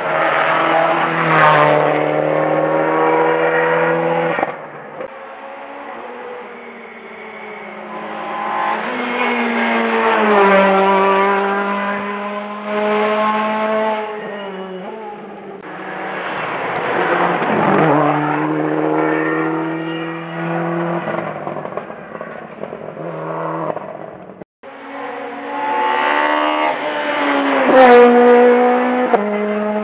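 Rally cars passing one after another at speed on a special stage, engines revving hard through gear changes. Each car's engine pitch climbs as it approaches and drops as it goes by.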